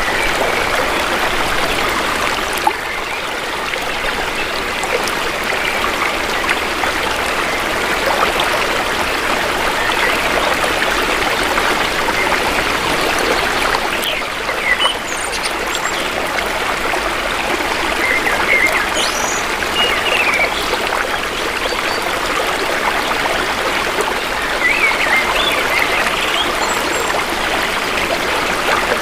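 Shallow stream flowing steadily over stones, a constant even rush and trickle of water. A few brief bird chirps sound faintly now and then over it, mostly in the second half.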